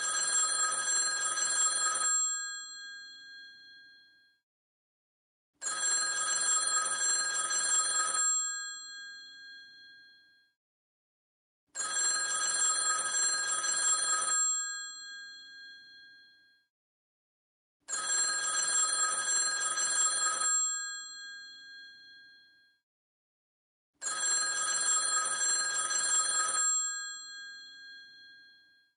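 Old telephone's bell ringing in the classic cadence: five rings of about two seconds each, every six seconds or so, with silence between them. Each ring fades out with a short ringing tail.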